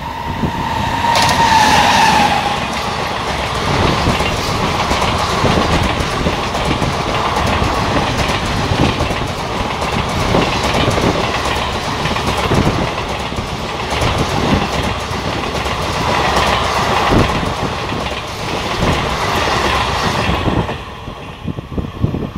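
Passenger train hauled by a WAG9 electric locomotive passing at speed. The locomotive's horn sounds as it arrives, its pitch dropping as it goes by, then the coaches rush past with a steady clickety-clack of wheels over rail joints, fading away near the end.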